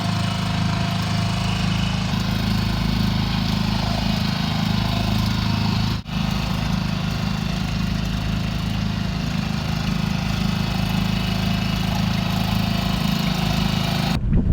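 A small yacht's engine running steadily as the boat motors along, with a brief break about six seconds in.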